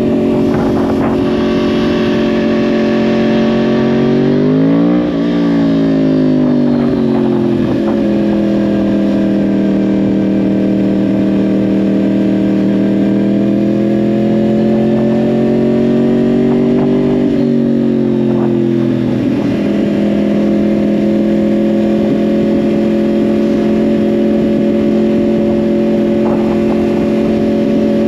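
2010 Yamaha R1's crossplane inline-four engine through a Yoshimura exhaust, running under way at mostly steady revs. The engine note swings down and back up about five seconds in and drops again a little past the middle before settling steady.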